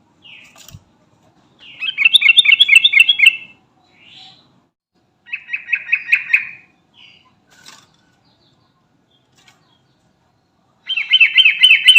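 Sooty-headed bulbul (trucukan) calling: three short runs of rapidly repeated bright notes, each about a second and a half long, a few seconds apart, with a few faint chips between them.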